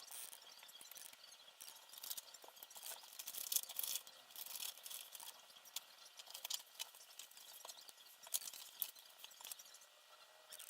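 Small parts and tools being handled during assembly: a quick, irregular run of light clicks, taps and rustles.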